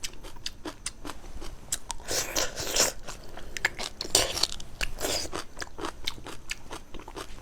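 A person biting and chewing crunchy food close to the microphone: a run of sharp crunches and crackling clicks, heaviest about two seconds in and again around four seconds in.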